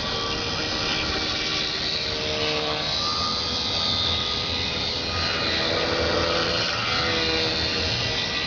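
Scratch-built micro RC airboat's small motor and propeller whining steadily, its pitch stepping up and down several times as the throttle changes.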